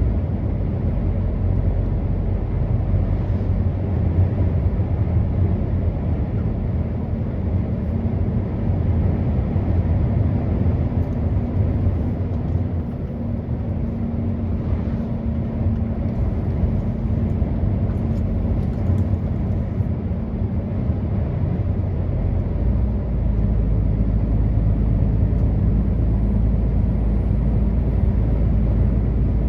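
Truck engine running steadily under road noise, with a deep hum; the low engine note shifts about 22 seconds in.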